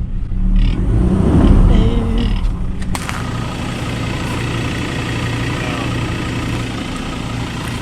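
Four-wheel drive's engine running with a heavy low rumble for the first couple of seconds, then a sharp click about three seconds in, then idling steadily. The vehicle is bogged: the wheel ruts are too deep and it is sitting on the ground.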